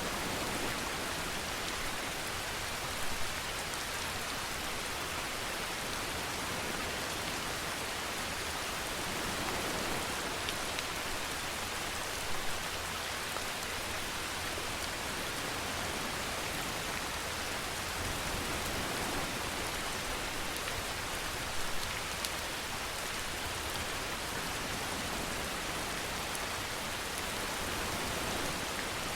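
Steady rainfall, an even hiss of rain on a surface, with a few brief louder drops about three, twelve and twenty-two seconds in.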